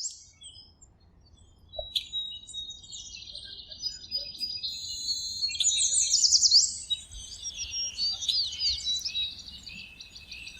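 Songbirds chirping and singing, with quick trills and rapid down-slurred notes that grow busier after the first couple of seconds.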